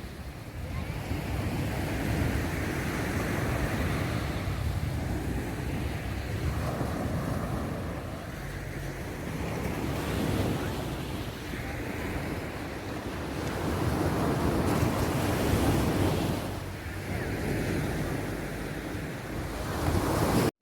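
Sea waves washing onto the beach, surging and easing every few seconds, with wind rumbling on the microphone.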